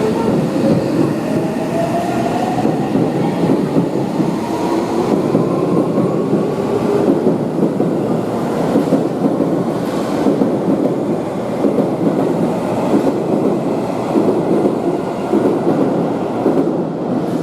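Seibu Railway 6000-series electric commuter train running over steady wheel-and-rail noise. Its traction motors whine in tones that rise over the first several seconds as the train gathers speed.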